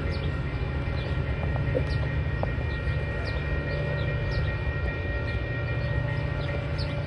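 Metra push-pull commuter train pulling away from the station, its diesel locomotive and bilevel cars making a steady low rumble with a few steady tones above it.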